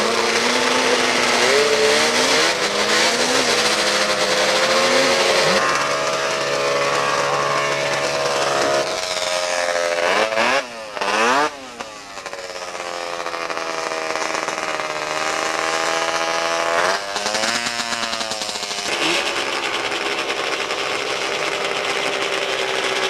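Two-stroke racing snowmobile engines revving, their pitch rising and falling in short blips, with two brief dropouts about ten seconds in. Then a long, steady climb in pitch as a sled accelerates, followed by another quick rise and fall.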